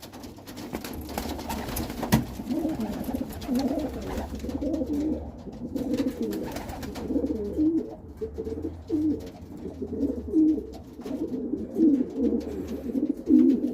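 Domestic pigeons cooing over and over, low rolling coos, while two young cock pigeons fight over territory.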